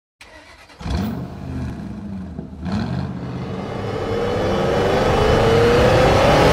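Car engine revving: two quick blips, about a second and about two and a half seconds in, then a long steady rev climbing in pitch.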